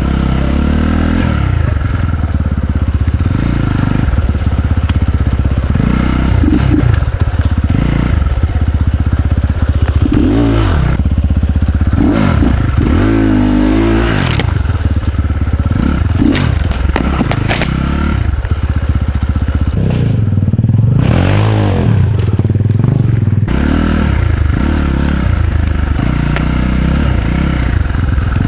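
Dirt bike engine revving up and down repeatedly while riding off-road, with clattering and knocks as the bike goes over rough ground.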